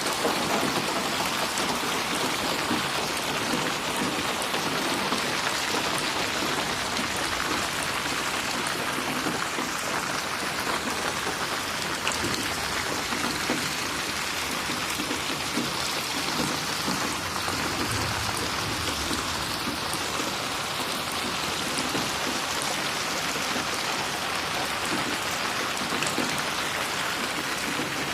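Steady rain pattering on a surface, with fine individual drop splashes and no thunder.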